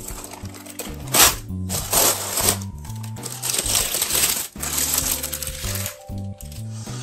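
Background music with bursts of clinking, rustling kitchen noise from baking work, such as utensils against a bowl.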